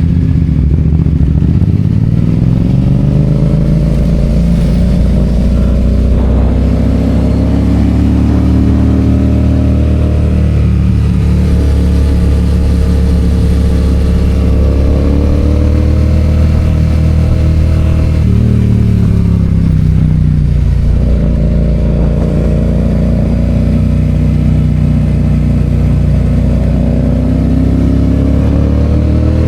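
Yamaha FZ-07's parallel-twin engine under way, its pitch climbing slowly as the revs build, then dropping about ten seconds in and twice more around eighteen and twenty seconds, before climbing again near the end.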